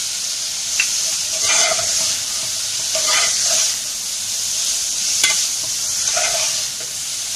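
Chicken and shredded vegetables sizzling in a hot pan, stirred with a metal spoon: a steady frying hiss with three scraping strokes and two sharp clicks of the spoon against the pan.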